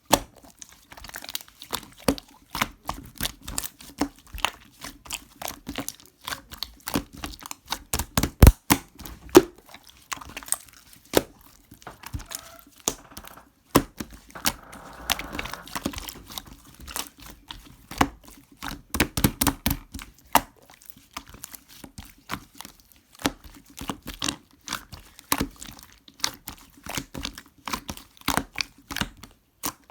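Crinkly material handled up close, crinkling and tearing, amid many sharp clicks and taps.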